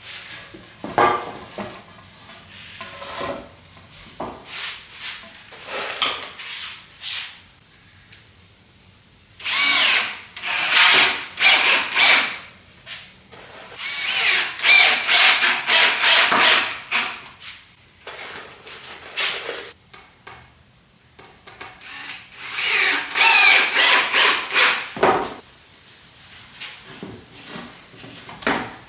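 Power drill driving star-head screws into wooden form boards, in three runs of a few seconds each, with knocks and rubbing of boards being handled between them.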